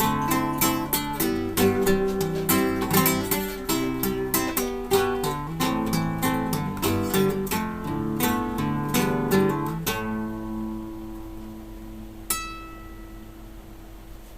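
Solo acoustic guitar playing a quick run of plucked notes that ends on a chord about ten seconds in, left to ring and fade. Near the end a single bright high note is plucked and rings out.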